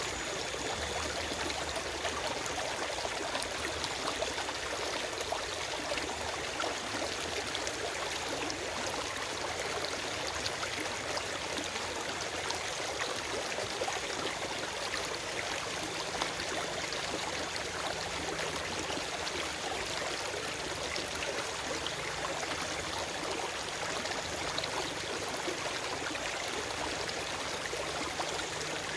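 Forest stream running over rocks: a steady rush of flowing water with fine splashing and trickling, no birds.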